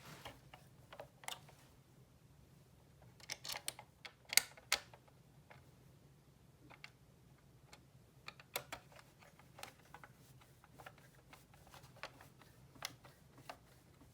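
Scattered light clicks and taps of small parts and tools being handled while working on a die-cast model car, with a cluster of sharper clicks about three to five seconds in, over a faint steady low hum.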